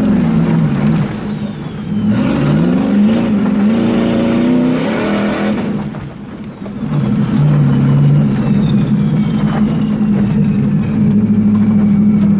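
Turbocharged 454 big-block V8 pulling hard under full throttle: the revs climb for a few seconds, drop briefly about halfway through as the throttle comes off or a gear changes, then the engine holds steady at speed. A faint high turbo whistle runs over the engine note.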